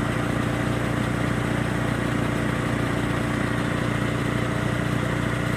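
Masport 6 HP chipper shredder's Briggs & Stratton single-cylinder four-stroke engine running steadily at an even speed.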